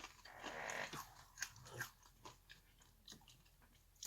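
Faint crunching and chewing of food close to the microphone: a short crunchy patch near the start, then scattered small clicks.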